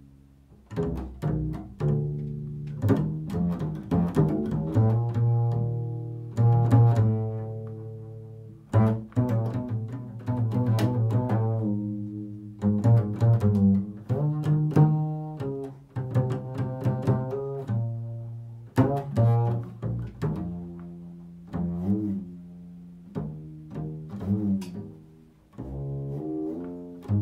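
Solo improvised instrumental music: a low plucked string instrument playing a slow melodic line, each note struck and then left to die away.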